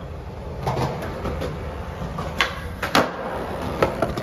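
Skateboard wheels rolling on hard ground, with several sharp clacks of the board being popped and landed.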